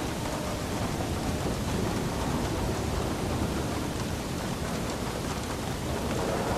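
Steady rain falling, with a low continuous rumble underneath.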